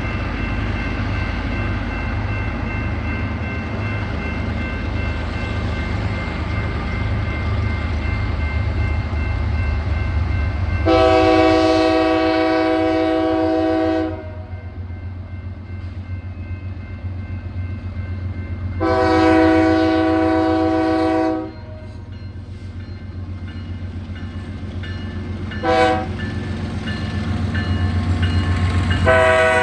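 Diesel freight locomotive's multi-chime air horn sounding the grade-crossing signal, long, long, short, long, over the steady low rumble of the diesel engines. The last long blast starts near the end and is still sounding.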